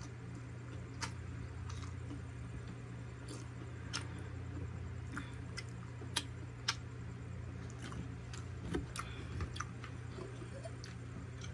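Close-up chewing of a siomai dumpling: scattered, irregular sharp wet mouth clicks and smacks over a steady low hum.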